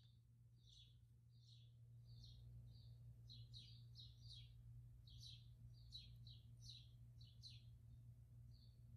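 Faint, rapid chirping of a small bird, a few short chirps a second, over a steady low hum.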